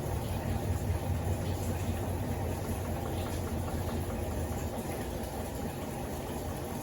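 Electrolux LTD15 top-loading washing machine running, its motor and drum giving a steady low hum.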